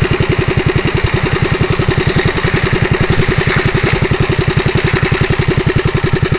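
Bonanza minibike's small single-cylinder engine idling with a steady, even beat of about ten pulses a second.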